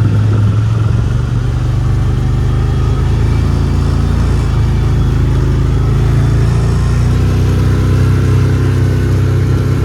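A vehicle engine running steadily at a constant speed, with wind rumbling on the microphone.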